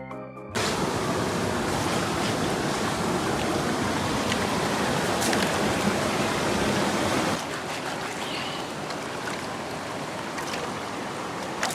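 A steady rushing noise like running water or wind, starting abruptly just after a short burst of organ music. It drops a little in level about seven seconds in.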